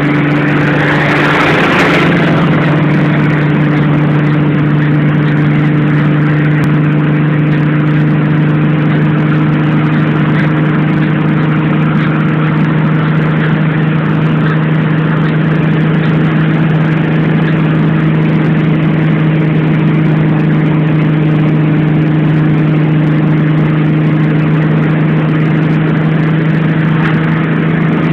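Car engine running at a steady cruising speed, heard from inside the cabin as an even hum under road and wind noise. A louder rush of wind dies away about two seconds in.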